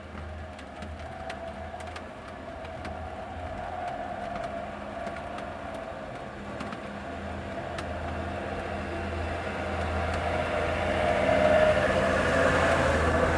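Truck engine and road noise, a steady drone that grows steadily louder, as of trucks drawing near.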